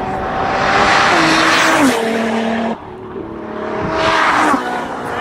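Drag-racing car accelerating hard and passing close, its engine note dropping in two steps as it shifts up. The sound cuts off sharply, then a second run of car noise swells and stops just as abruptly.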